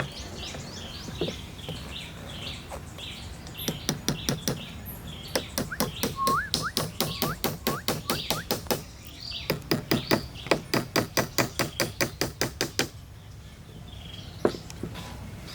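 Birds chirping, with a few whistled rising notes. Through the middle there are long runs of quick, sharp knocks, about six a second, with a short break partway.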